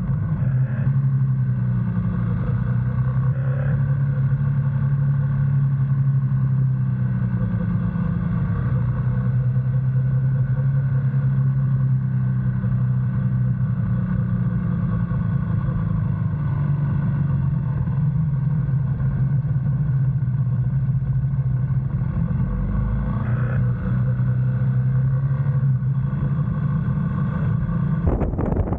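GS motorcycle engine running at a steady, even pitch while riding. It stops abruptly near the end, giving way to wind rush.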